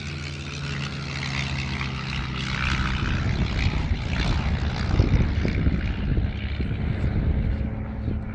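Light single-engine piston propeller aircraft flying past, the engine drone growing louder toward the middle and easing off near the end.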